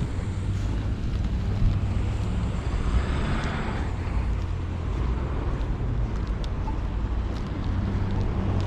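Strong storm wind buffeting the microphone: a steady, gusting low rumble, with a swell of hiss about three seconds in.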